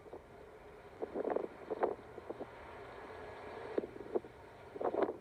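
Wind buffeting the microphone in irregular gusts, over a faint steady drone that is plausibly the diesel engine of a TEM2 shunting locomotive.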